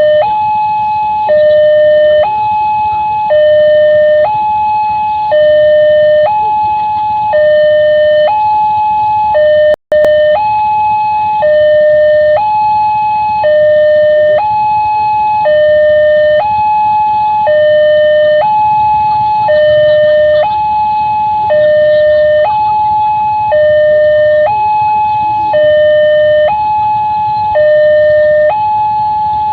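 Railway level-crossing warning alarm sounding a steady two-tone electronic signal, high and low notes alternating about once a second, which warns that a train is approaching. It cuts out for an instant about ten seconds in.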